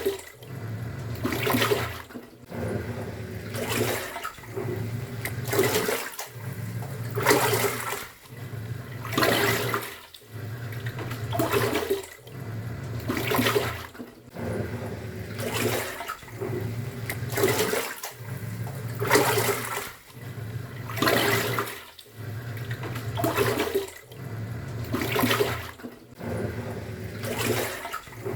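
Top-loading pulsator washing machine agitating with water in the drum: a low motor hum and a swish of sloshing water that surges and drops about every two seconds as the pulsator turns back and forth.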